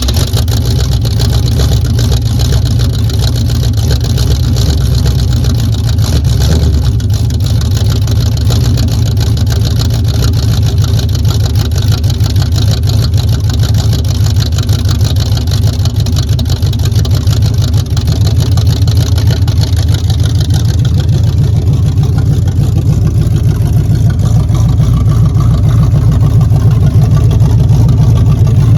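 1978 Camaro's carbureted engine running steadily just after a cold start with no choke, a loud, deep exhaust rumble. About twenty seconds in the sound turns deeper, its higher tones fading.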